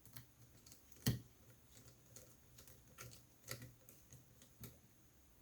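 Faint, scattered small clicks and taps of a small screwdriver and parts being handled on a laptop's internals, with one sharper click about a second in.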